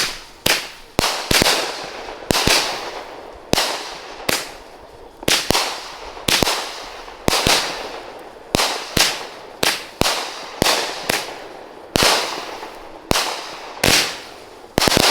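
Maddox 'Monkey Wrench' consumer firework cake firing: a run of about two dozen loud bangs, one to two a second, each trailing off in a short fading tail.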